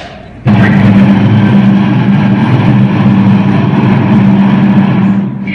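Recorded subway train sound effect played loud through the hall's sound system: a steady low rumbling run that cuts in suddenly about half a second in and eases off near the end.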